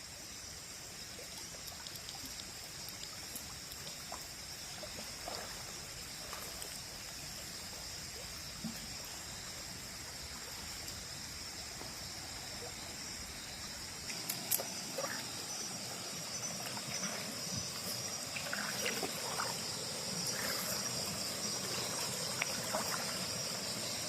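Shallow stream water trickling, under a steady high-pitched drone of night insects. About halfway through it gets a little louder and small knocks and splashes begin, as of someone wading.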